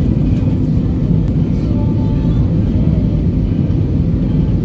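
Steady low rumble of an airliner's cabin noise in flight: engine and airflow noise heard from inside the passenger cabin.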